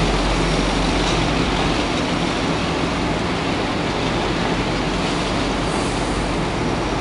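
Passenger coaches of a departing diesel-hauled train rolling past over the rails: a steady running noise of wheels on track, a little louder for the first two seconds.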